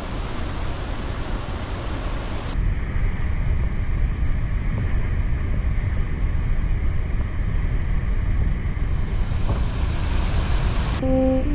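Steady, loud rush of water pouring down a large waterfall, a dense roar with heavy low end. Its brightness changes abruptly a couple of seconds in, as the shot cuts.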